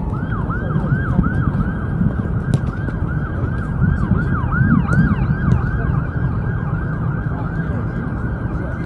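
Emergency vehicle siren on the fast yelp setting: a tone that sweeps quickly up and down, about three times a second. It runs over a steady low rumble.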